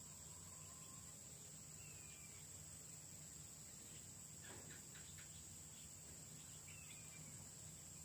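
Faint forest ambience: a steady high-pitched insect buzz, with a few faint short bird chirps and a brief cluster of soft clicks about four and a half seconds in.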